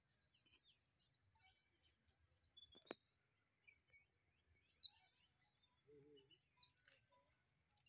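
Near silence: faint open-air ambience with scattered, brief bird chirps and a couple of faint clicks, the sharpest about three seconds in.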